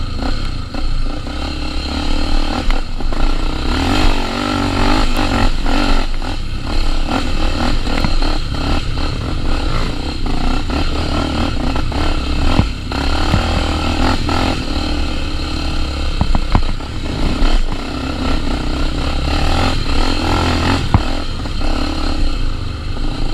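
Honda XR 250 Tornado's single-cylinder four-stroke engine running with the throttle opening and closing, rising and falling in pitch, with frequent knocks and rattles from the bike over rough ground.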